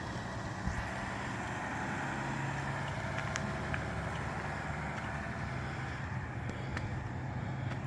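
A car driving: a steady engine hum with road and wind noise, a few faint clicks over it.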